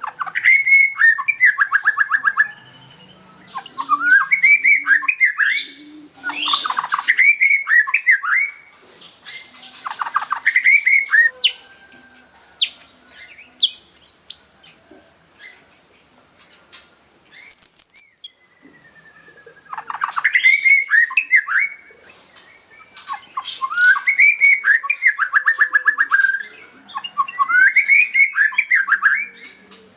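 Young white-rumped shama, just out of its spotted juvenile plumage, singing its basic song: phrases of quick whistled notes and rapid trills, each two to three seconds long, separated by short pauses. Midway there is a quieter stretch of a few scattered sharp notes before the phrases resume. The bird is practising the long, continuous 'ngeplong' singing style.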